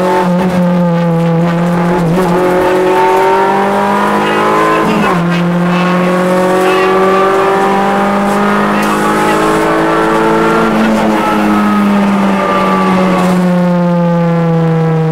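Rally car's engine pulling hard, heard from inside the cabin: the revs climb slowly, dip briefly about five seconds in and climb again, then fall away over the last few seconds.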